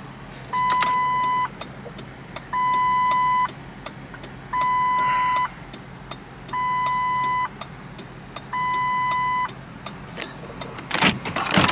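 2006 Lincoln Town Car's dashboard warning chime sounding five times, one steady ding just under a second long every two seconds. Faint regular ticks underneath, likely the hazard-flasher relay.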